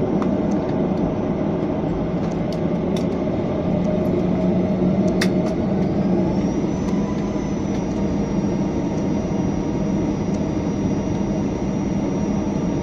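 Steady engine rumble heard inside an airliner cabin after landing, with a high whine that rises about halfway through and then holds, and a few sharp clicks.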